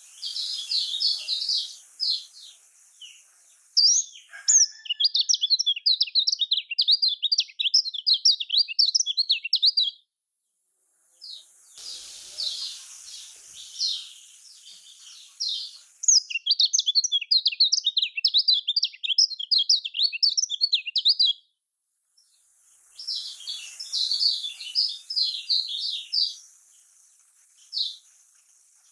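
Kecial kuning (a white-eye) calling and singing: sparse high-pitched chirps alternating with long runs of fast, twittering warble, in a repeating pattern broken twice by a moment of dead silence. This is a lure recording meant to set caged kecial kuning singing.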